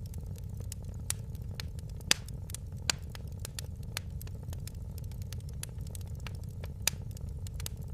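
Fireplace fire crackling: many small irregular clicks over a low steady rumble, with a few louder sharp pops, the loudest about two seconds in.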